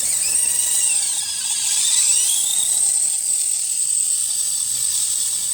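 Redcat Gen7 Sport RC crawler's electric motor and geared drivetrain whining, the pitch rising and falling with the throttle over a steady high whine. The drivetrain is packed with mud and sounds pretty bad.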